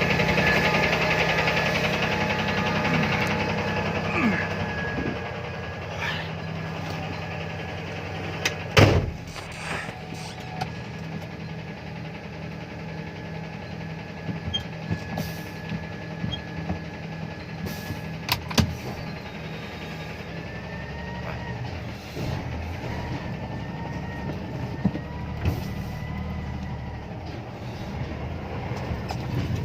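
A vehicle engine idling steadily, with one loud sharp knock about nine seconds in and scattered lighter clicks after it.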